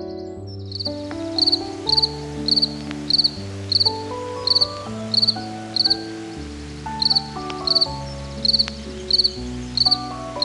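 Insect chirping at a steady rate, about three chirps every two seconds, each chirp a quick run of a few pulses, starting about a second in. Background music with piano-like notes plays underneath.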